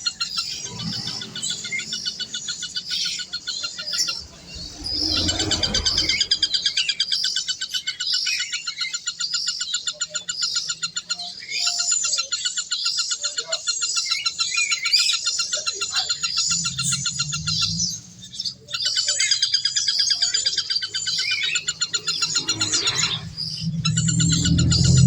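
Birds chirping and trilling continuously in rapid repeated notes, with short breaks now and then and a low hum near the end.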